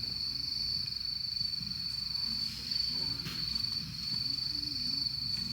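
Crickets trilling, one steady high unbroken tone, over a low rumble of outdoor noise.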